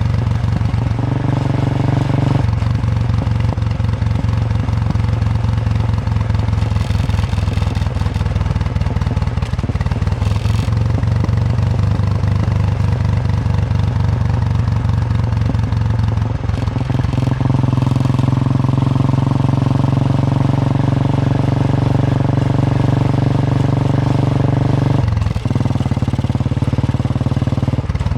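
Royal Enfield Bullet 350's single-cylinder engine thumping steadily under way, its note stepping down and back up a few times as the throttle or gear changes. Some wind rush over the microphone.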